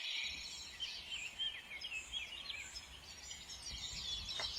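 Small birds chirping: many quick, short calls overlapping, with a faint steady background hiss.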